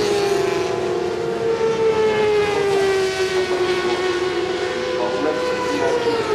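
Several 400 cc supersport racing motorcycles at high revs, a high engine whine with overlapping notes. One note slowly falls in pitch and another comes in about five seconds in.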